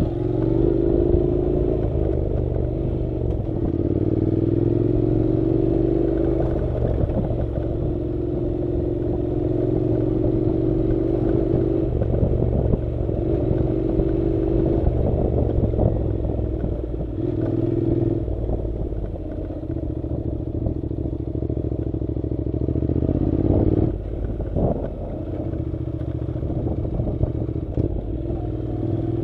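Honda NC700 motorcycle's parallel-twin engine running on a dirt road ride, its note holding for stretches of a few seconds and shifting in pitch between them as the throttle changes. Rattling and clatter from the rough track underneath.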